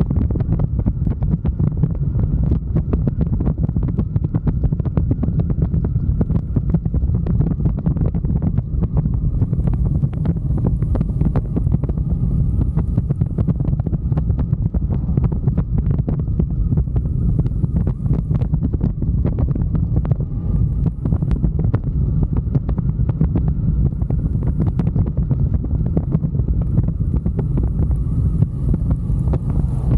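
Wind buffeting the microphone on a moving motorcycle, a steady loud low rumble with crackling, with the motorcycle running underneath.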